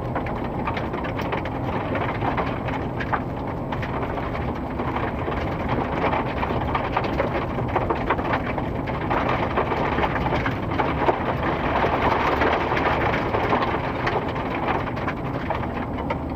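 Steady mechanical rumble of road-works machinery or vehicles, with dense crackling over it that swells a little toward the middle.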